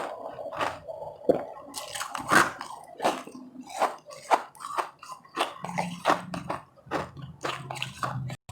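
Close-miked chewing and biting of powdery frozen ice, irregular crunches a few times a second with a dense run of crunching about two seconds in.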